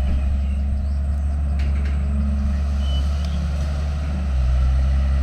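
Diesel engine of heavy earthmoving machinery running steadily under work, with a couple of faint clinks. The engine gets louder about four seconds in.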